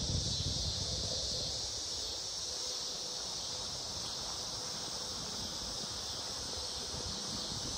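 Steady, high-pitched chorus of insects chirring, with no break or change.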